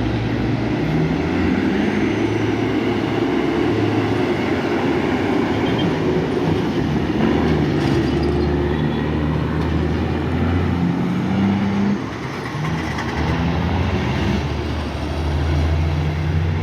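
Heavy diesel truck engine running under load, its low pitch stepping up and down as the truck moves, with a short dip in level about twelve seconds in.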